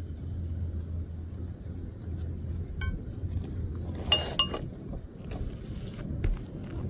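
Metal roofing tools clinking as nails are worked loose from shingles: a light ring about three seconds in and a sharper ringing clink just past four seconds, with a few smaller taps after, over a steady low rumble.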